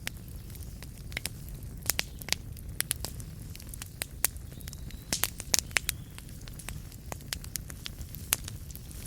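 Wood fire burning in a fireplace: logs crackling and popping at irregular intervals over a low steady rumble of the flames, with a cluster of sharper pops about five to six seconds in.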